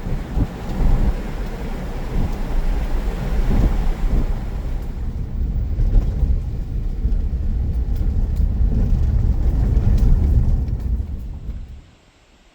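Steady low rumble of a car driving, heard from inside. It fades out just before the end.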